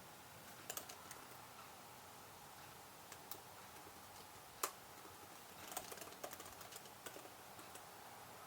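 Computer keyboard typing in short, scattered bursts of keystrokes: a few clicks near the start, single taps, one sharper keystroke around the middle, then a quicker run of typing in the second half, over a faint steady hiss.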